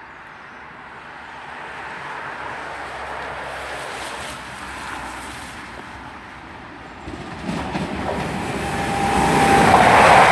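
A Class 220 Voyager diesel-electric multiple unit approaching and passing through the station at speed. Its rumble grows louder from about seven seconds in, with a steady whine near the end.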